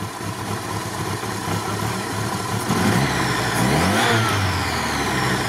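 A LuAZ's petrol engine running under an open bonnet, warming up on choke after being brought back to life; the revs pick up and it gets louder about three seconds in.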